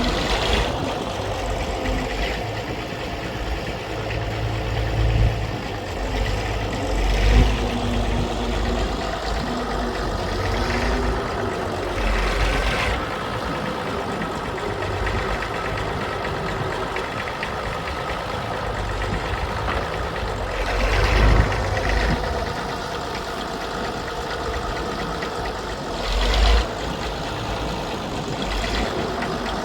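Fordson E27N tractor's Perkins P6 six-cylinder diesel running steadily, with a few brief louder swells every several seconds.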